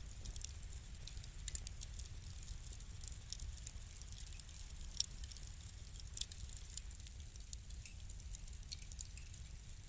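Wood fire burning in a fireplace, crackling with many small irregular pops over a low steady rumble. A sharper pop comes about five seconds in and another about a second later.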